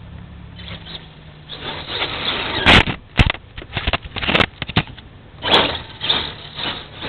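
Electric Axial RC truck driving over rough ground: irregular bursts of scraping and crunching with several sharp knocks, the loudest a little under three seconds in.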